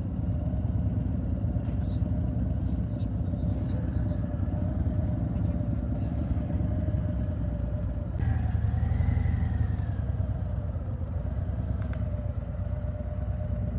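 Motorcycle engine running steadily with low rumble. About eight seconds in, the engine note rises and then falls as it picks up speed briefly and eases off again.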